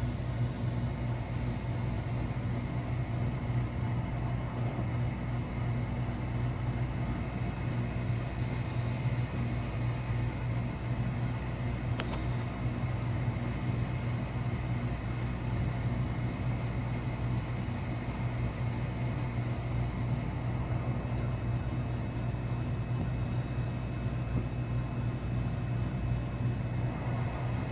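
Steady low mechanical hum and rumble that does not change, with a single sharp click about twelve seconds in.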